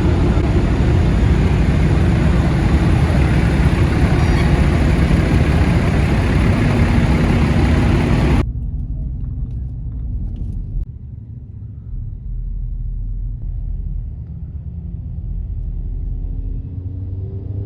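Loud, even rushing noise, like wind and road noise on the microphone, for about eight seconds. It then cuts off abruptly to a quieter low vehicle rumble, with an engine pitch rising near the end.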